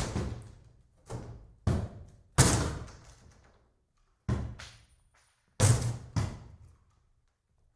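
Axe blows smashing into the wooden boards of a cabin: about seven heavy strikes at irregular intervals, each a deep thud followed by a short, decaying crackle of splintering wood.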